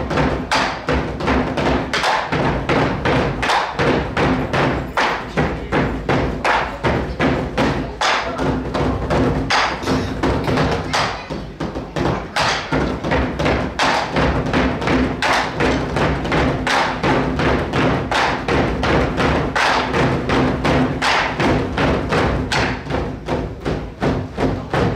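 Nanta drumming: a group of players striking drums with sticks in unison, a fast, even beat of hard hits at about four a second, over recorded backing music. The hits thin out briefly about halfway through.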